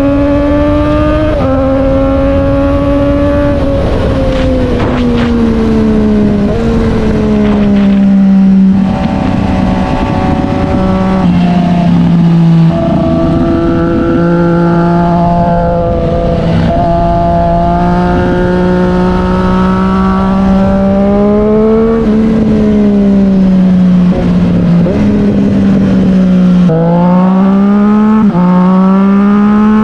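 Triumph Street Triple 765 R's inline three-cylinder engine running through an SC Project S1 exhaust, its note rising and falling with engine speed. There are a few sudden steps in pitch, such as a gear change about a second in and another near the end, after which the note climbs again.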